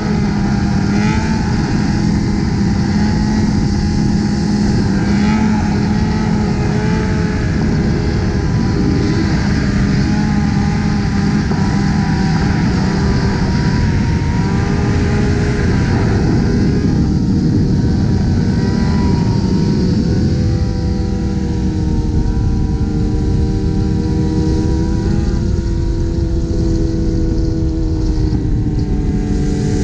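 Motorcycle engines running at highway speed over a steady rush of noise, their pitch drifting slowly up and down as the throttle changes.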